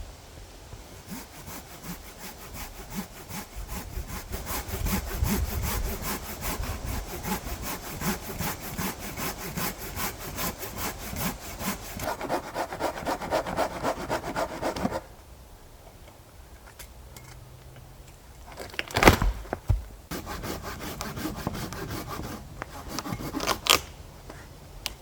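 Hand saw cutting through wood in steady, rhythmic back-and-forth strokes, stopping suddenly about fifteen seconds in. Two sharp knocks follow a few seconds later.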